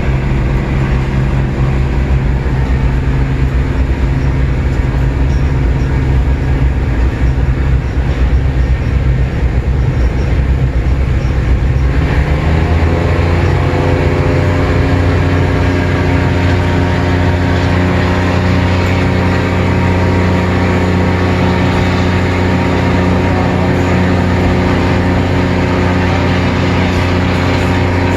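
Train running, heard from the open gangway between carriages: a loud, steady rumble and rattle with a low hum, whose pitch rises about twelve seconds in and then holds steady at the higher note.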